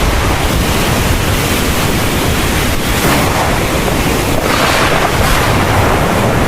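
Heavy thunderstorm rain pouring steadily, with a deep low rumble beneath it and the downpour swelling briefly a couple of times.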